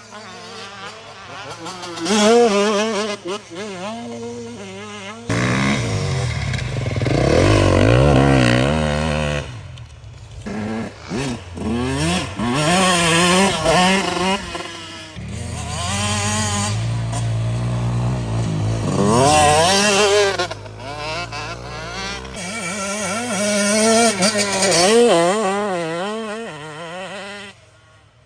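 Dirt bike engines revving up and backing off over and over, pitch rising and falling as the bikes ride past, with several loud close passes.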